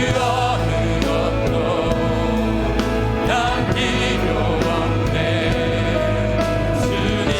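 Live worship band playing a praise song, with piano, synthesizer, bass guitar, electric guitar and drums, and voices singing along.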